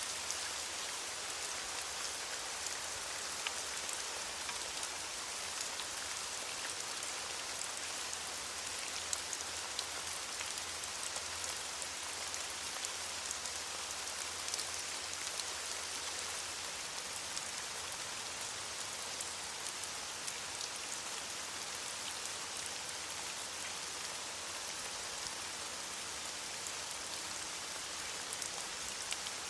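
Steady rain falling on leaves, a constant even hiss scattered with small pattering drops.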